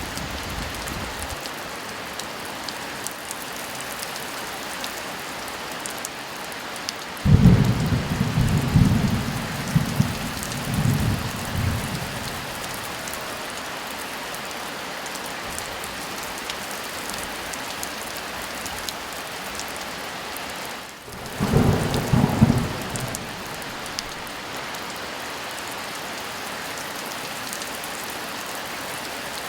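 Steady heavy rain, with two rolls of thunder: a long low rumble about seven seconds in lasting several seconds, and a shorter one about two-thirds of the way through.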